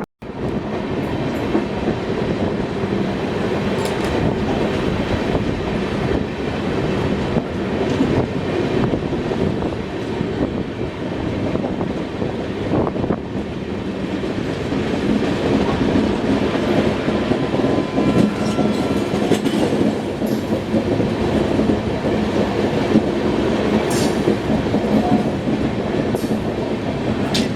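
Passenger train running along the track, wheels clattering over the rails in a steady, continuous rumble, heard from on board.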